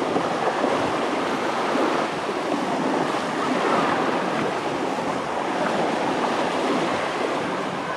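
Sea surf washing onto a sandy beach: a steady, unbroken rush of waves.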